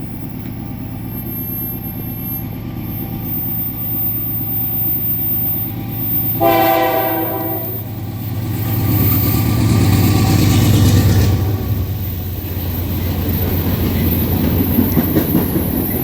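CN diesel locomotive passing with a steady low engine drone that swells about ten seconds in. It sounds its horn once, for about a second and a half, a little past six seconds in. Rail cars clatter along behind it near the end.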